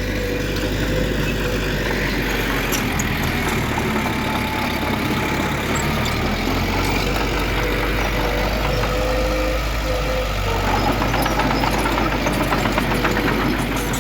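Heavy diesel earthmoving machinery, a bulldozer and dump trucks, running steadily, with a fast clattering in the last few seconds.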